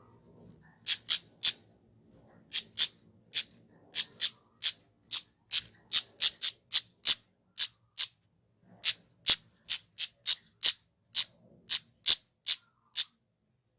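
Kemade, a flowerpecker, calling a long series of sharp, high, ticking chips, two to three a second, with a short pause a little after the middle.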